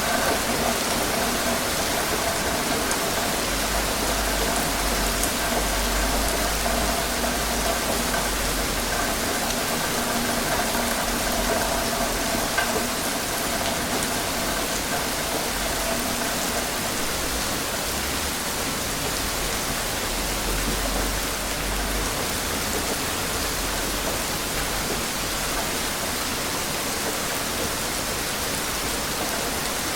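Steady, heavy rain falling, an even hiss of many drops. A faint steady hum runs underneath for the first half and then fades out. A low rumble comes and goes twice.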